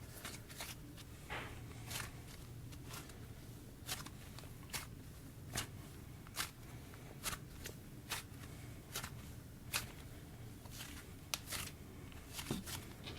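Hand-worked clay slime with sprinkles in it, stretched and squished, giving sharp sticky clicks and pops about once a second.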